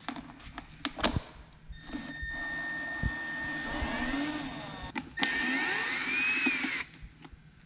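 A small electric power tool runs twice. The first run lasts about three seconds with a steady whine. After a short pause comes a louder run of about a second and a half, whose pitch rises and falls before it cuts off suddenly. There is a sharp knock about a second in.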